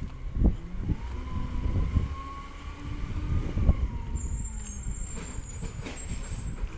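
Diesel Peterbilt 320 side-loader garbage truck running. There are heavy knocks about half a second in and again past the middle, and a whine that rises and then falls from about one to four seconds in.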